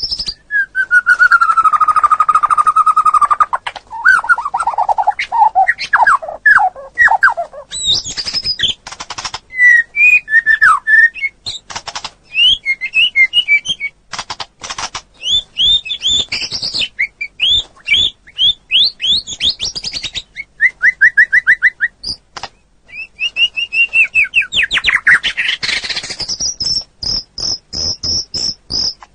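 Songbird singing a long, varied song: low whistled notes sliding downward, then sharp clicks, chirps and short trills, and near the end a fast run of high repeated notes.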